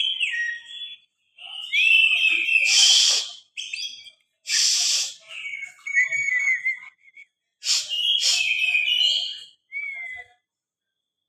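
Oriental magpie-robin singing in agitated bursts of quick whistled phrases, cut by three loud, harsh rasping notes. This is the high-excitement, fighting-mood song that kacer keepers prize.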